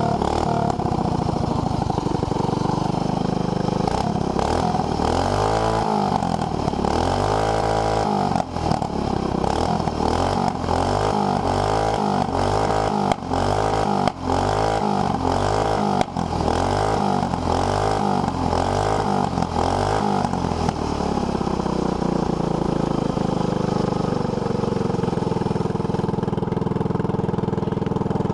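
A 212cc single-cylinder four-stroke small engine running through an aftermarket header pipe, blipped up and down over and over in quick throttle revs, then settling to a steady run near the end.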